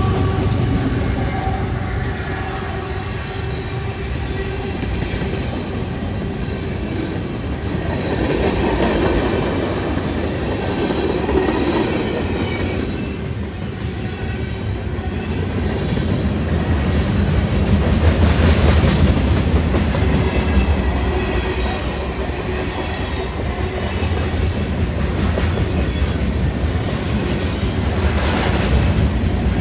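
A train's cars rolling past in a steady rumble and clatter of wheels on rail, swelling louder a couple of times.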